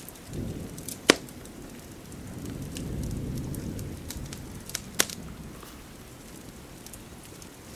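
Wood fire crackling in a fireplace: a scatter of small ticks with two sharp, loud pops, one about a second in and one about five seconds in, over a soft low swell in the middle.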